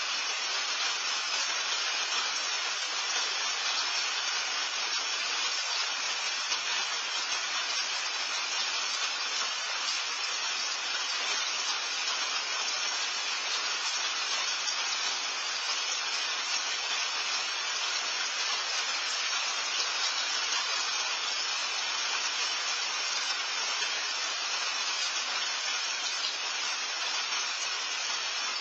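Steady rain falling, a dense even hiss with no distinct drops or breaks.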